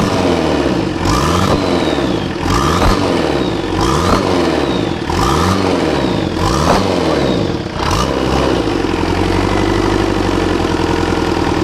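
Volkswagen diesel engine on its first run after an engine swap, revved up and back down about six times, roughly once every 1.3 seconds. About eight seconds in it settles to a steady idle.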